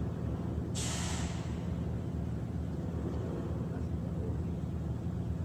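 An engine running with a steady low hum. About a second in, a sudden hiss starts and fades out within a second.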